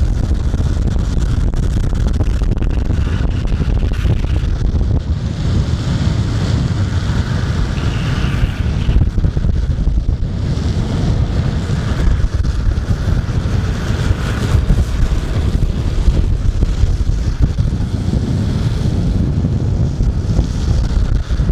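Wind buffeting the microphone on a fast-moving vehicle: a loud, constant rumble with hiss and road noise underneath.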